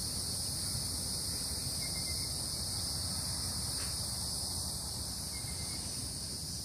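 Steady chorus of insects, such as crickets or cicadas, making a continuous high buzz at two pitches over a low rumble.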